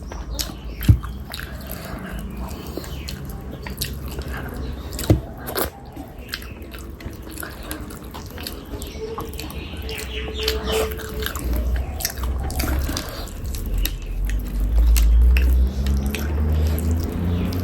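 Close-miked chewing and wet mouth sounds of someone eating fish curry with rice, with many scattered sharp clicks and smacks. A low rumble builds near the end.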